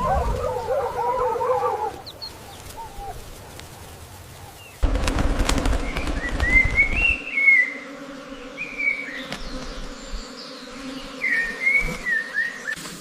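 Bird calls in two clips. For about two seconds a group of domestic fowl call with wavering notes. After a cut, a single bird chirps in short rising-and-falling phrases twice.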